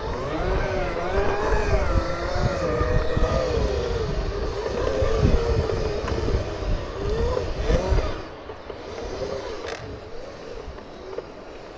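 Segway's electric drive whining, its pitch rising and falling smoothly as it speeds up and slows, over a low wind rumble on the microphone that drops away about two-thirds of the way through.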